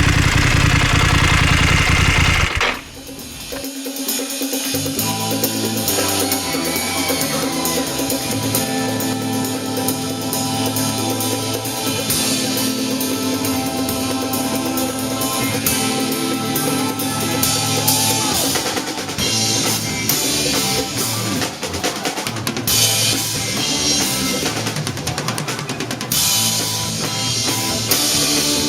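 A BMW F 850 GS's parallel-twin engine running through an Akrapovic exhaust, cut off abruptly about three seconds in. After it comes music with a drum kit and a steady beat.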